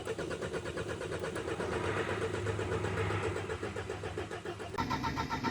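The 1.6-litre petrol engine of a 2002 Audi A4 B6 being started after its fuel pump was replaced, turning over with a fast, even rhythm. The tone changes about five seconds in.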